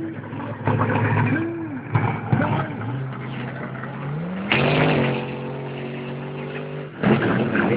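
Monster truck engine revving: its pitch climbs, holds steady for a couple of seconds, then cuts off abruptly about seven seconds in.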